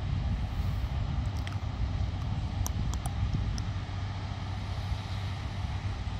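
Wind buffeting the microphone: a steady low rumble, with a few faint ticks between about one and a half and three and a half seconds in.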